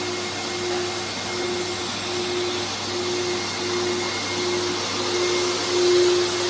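A motor-driven machine running steadily with a whirring noise. A hum in it pulses on and off about every 0.7 s, then holds steady and grows a little louder near the end.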